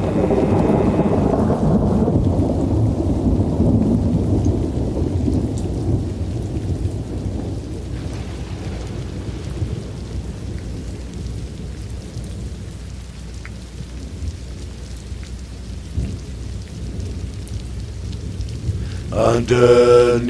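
Steady rain falling with rumbles of thunder, one sharper crack about two-thirds of the way through. The tail of the music dies away over the first couple of seconds, and music starts again just before the end.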